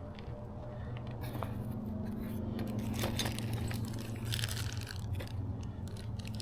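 Light clicks, taps and rustling from hand work on the outboard's water pump as the metal base plate is worked off the lower unit, over a steady low hum.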